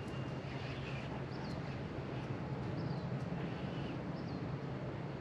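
Short bird chirps, one every second or two, over a steady low rumble of outdoor background noise.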